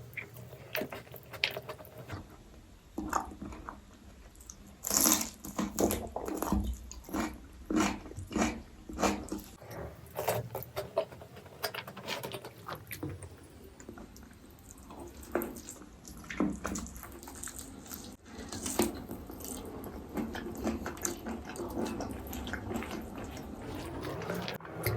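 Close-up wet eating sounds: chewing and lip smacking, with many irregular small clicks, busiest in the middle stretch.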